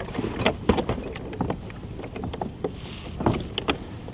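Fishing kayak moving on the water: a steady low wash of water against the hull, with scattered small knocks and clicks from gear and the hull.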